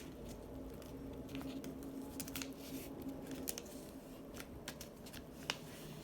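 Printer paper being handled and folded by hand: faint, scattered rustles and scrapes of paper sliding against paper as a fold is lined up and creased.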